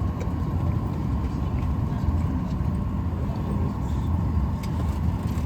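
Airliner cabin noise in flight: a steady low rumble of engines and airflow with a few faint ticks.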